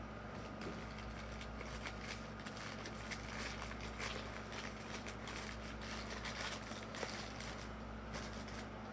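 Plastic toy parts and packaging being handled: irregular small clicks and crinkles over a steady low hum.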